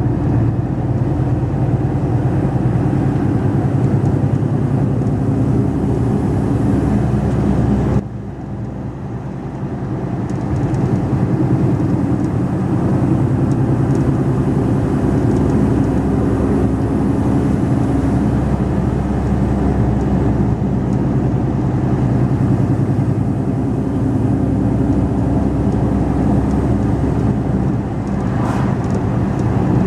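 Mercedes-Benz Actros 2546 truck's diesel engine running steadily under way, running unladen on a steep mountain road. About eight seconds in the engine sound drops off sharply, then builds back up over a couple of seconds.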